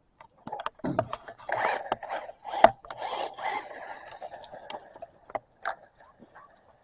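Toy RC truck driving over rough ground: irregular scraping and clattering with many small knocks, a sharp knock about two and a half seconds in, and a faint electric-motor whine through the middle.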